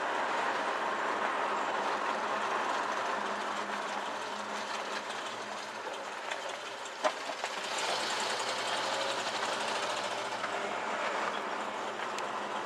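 1968 Chevrolet El Camino with a 327 four-barrel V8 on the move: steady engine, road and wind noise. There is a single sharp click about seven seconds in, and a little more hiss after that.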